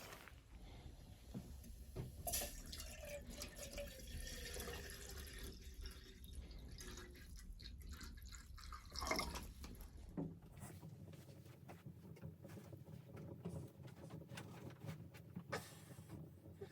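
Liquid dripping and splashing, with many small clicks and knocks.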